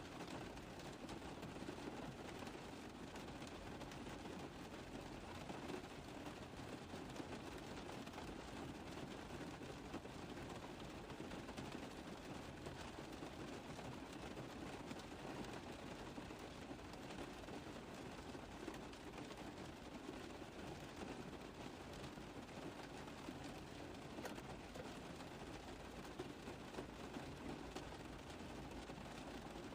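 Rain falling steadily on a car roof: a dense, even patter of drops tapping on the metal, with no breaks or changes.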